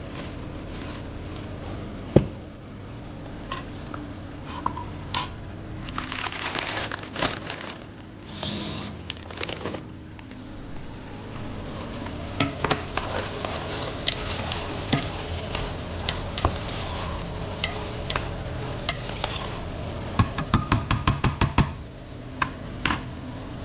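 Kitchen utensils and dishes clattering during cooking: scattered clinks and scrapes, with a quick run of about ten light taps near the end, over a steady low hum.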